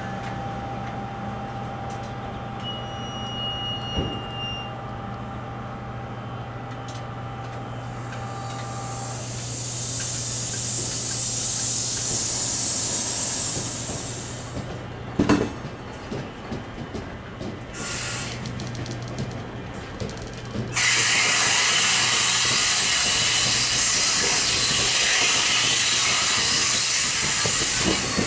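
NJ Transit Multilevel commuter train, powered by an ALP-45DP locomotive at the rear, rolling through the station with a steady low hum. A hiss swells about ten seconds in, a few sharp clanks follow in the middle, and about two-thirds of the way in a loud, steady rush of train noise sets in as the cars and locomotive come by.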